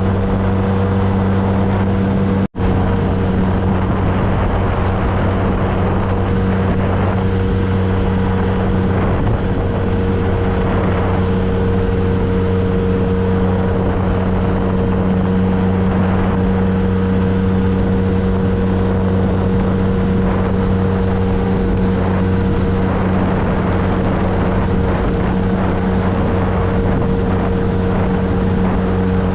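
2013 Triumph Trophy SE's 1215 cc inline three-cylinder engine running at a steady cruising speed, with road and wind noise. The sound drops out for an instant about two and a half seconds in.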